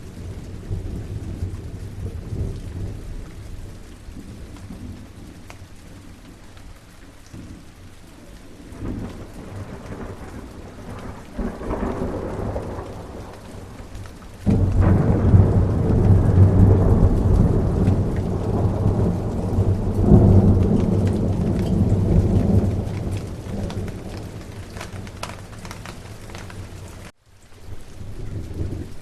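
Steady rain with thunder. Low rumbles come and go, then about halfway a loud clap breaks in suddenly and rolls on for several seconds before fading. The sound cuts out for a moment near the end.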